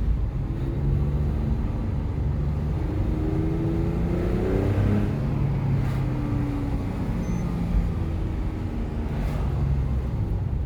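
Porsche 997's flat-six engine and tyre noise while driving. The engine pitch rises and drops several times as the car accelerates and shifts gears.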